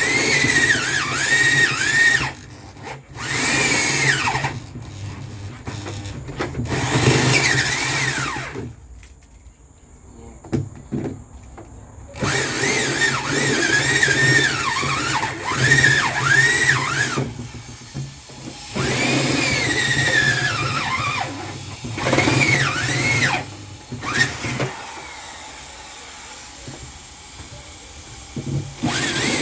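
Power drill running in repeated bursts of a few seconds each, its whine dipping and recovering in pitch as the widening bit cuts through the plastic and foam of an old fridge wall.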